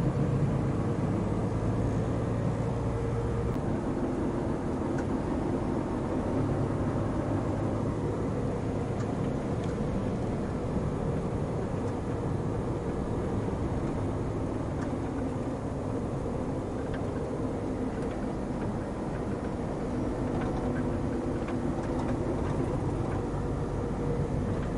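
Steady engine drone and road noise of a long-haul truck on the move.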